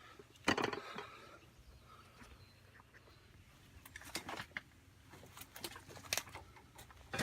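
A few scattered clicks and knocks over a faint low hum, the loudest about half a second in.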